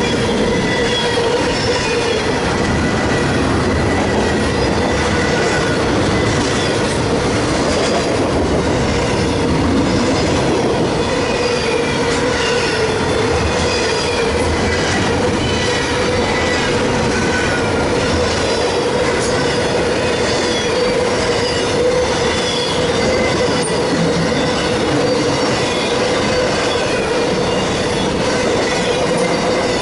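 A train rolling past at a steady level, its wheels squealing on the rails: a held ringing squeal with short higher squeals scattered over it, above the rumble and clatter of the wheels on the track.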